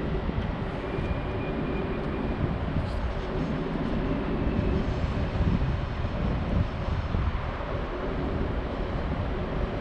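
A train running on the station tracks, a steady rumble.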